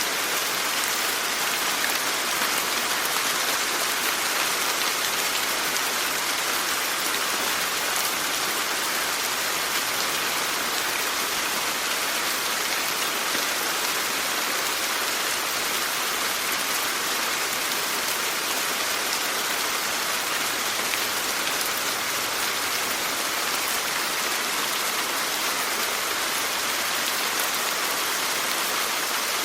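Steady rainfall, an even hiss of rain with faint patters of individual drops, unchanging throughout.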